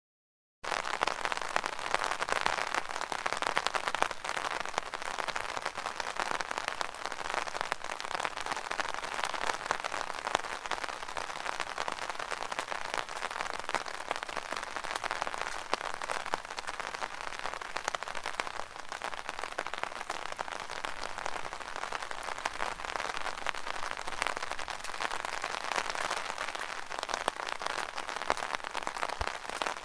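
Rain drumming steadily on an umbrella canopy, a dense patter of many small drop hits. The sound cuts out completely for about half a second at the very start.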